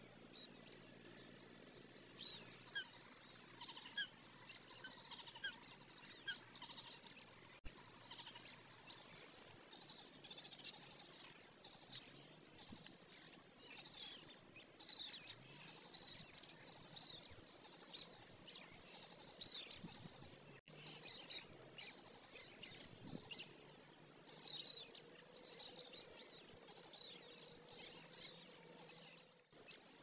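Small birds calling: a busy stream of high, thin chirps and squeaky notes with a few short downward whistles, most frequent in the first few seconds and through the second half.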